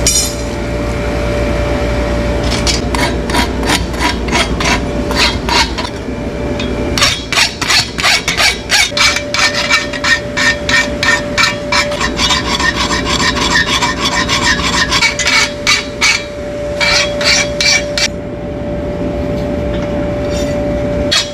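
Hoof being rasped: quick back-and-forth strokes of a hoof rasp, about three a second, in runs with brief breaks. A steady hum runs underneath.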